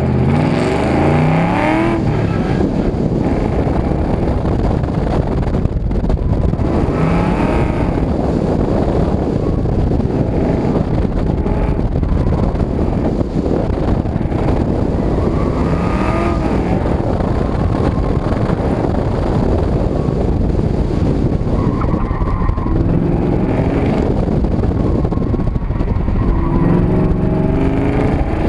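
Car engine under hard acceleration on an autocross run: it pulls up sharply from the launch, then rises and falls in pitch again and again as the driver accelerates and lifts through the cones.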